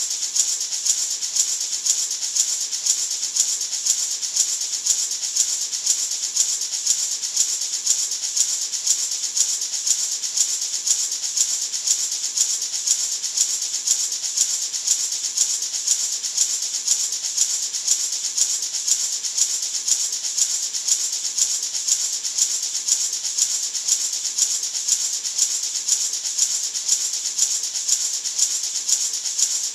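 Natural gourd maraca shaken continuously in a steady, even rhythm, a dry rattle of seeds against the gourd shell.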